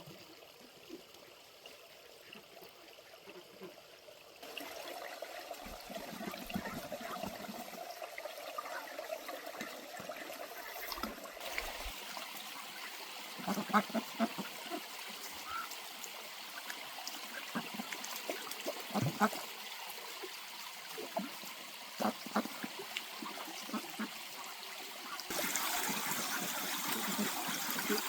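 Water running and trickling, getting louder near the end, with a few scattered knocks.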